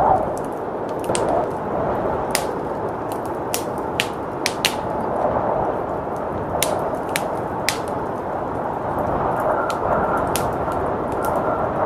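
Wood fire crackling with sharp, irregular pops over a steady rush of blizzard wind; a faint whistling tone joins the wind near the end.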